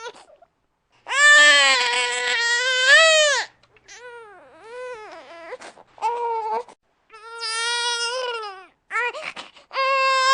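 Infant crying in repeated wails with short breaths between them: a long, loud wail about a second in, several shorter cries in the middle, and another long wail starting near the end.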